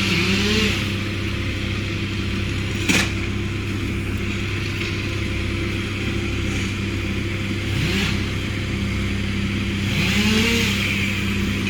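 An engine running steadily, its pitch briefly rising and falling a few times, with one sharp knock about three seconds in.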